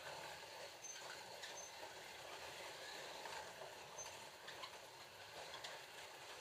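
Ford GT40 slot cars running around a plastic track: a faint steady whirring rattle with scattered clicks, and a few short high beeps.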